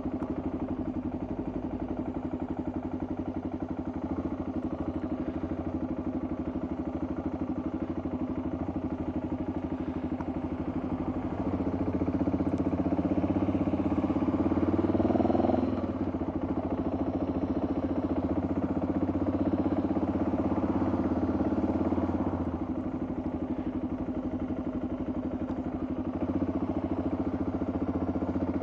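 Motorcycle engine running steadily, growing louder for a few seconds around the middle and dropping back sharply, then swelling again a little later.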